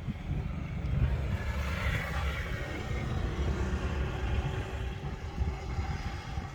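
Low rumbling vehicle noise, swelling about two seconds in and then fading.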